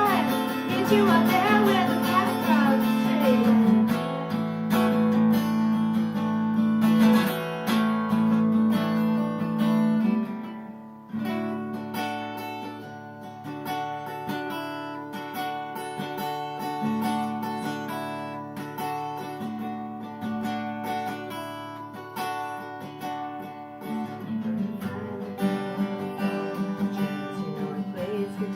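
Acoustic guitar strummed and picked in a solo live performance of a song. A singing voice holds wavering notes over the chords for the first few seconds, then the guitar carries on alone, dipping briefly about eleven seconds in before the strumming resumes.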